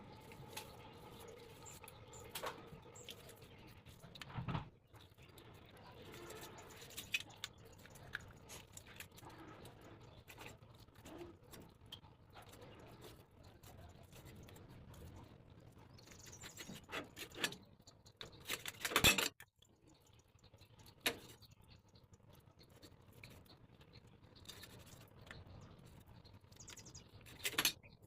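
Raw chicken being cut up by hand: irregular clicks, scraping and knocks, with a few sharper thuds, the loudest about 19 seconds in.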